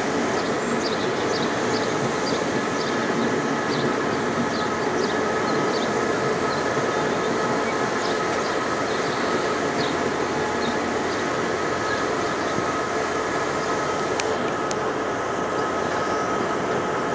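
Passenger train coaches rolling slowly on the track, heard from on board: a steady running noise with a faint steady whine, and a scatter of faint short high chirps in the first half.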